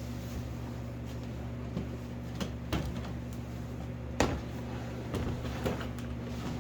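A series of short knocks and clunks of things being handled during the cleaning of an SUV camper, the loudest about four seconds in, over a steady low hum.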